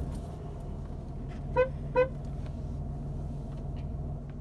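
Car horn tooted twice in quick succession, two short beeps, over a car engine idling with a steady low hum.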